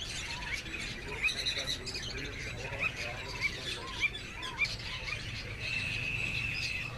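Cockatiels chirping: short chirps about twice a second, a brief harsher call about a second in, and a steady held whistle-like note for about a second near the end.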